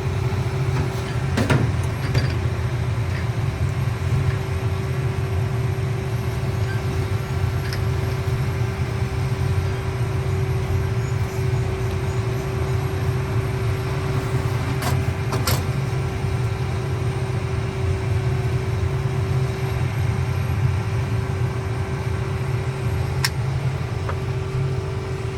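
Heavy farm machinery engine running steadily, a continuous low rumble with a constant hum over it. A few sharp clicks or knocks come through about a second in, twice around the middle, and once near the end.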